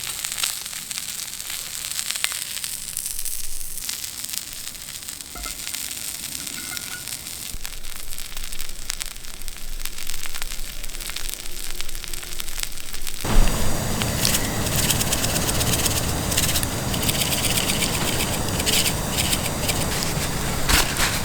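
Wood campfire crackling with a light sizzle from meat grilling on a thick iron griddle. About thirteen seconds in, this abruptly gives way to a louder, steady rushing noise.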